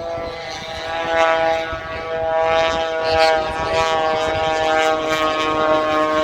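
Aerobatic biplane's 300-horsepower piston engine and propeller droning at high power during a slow, nose-high high-alpha pass, a steady buzzing tone that wavers slightly in pitch.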